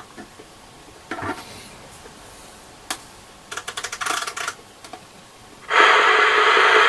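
Clicks and taps as the AOR AR-2002 scanner receiver is handled and its keypad buttons are pressed, including a quick run of clicks. About six seconds in, loud steady radio static hiss comes from the receiver's speaker.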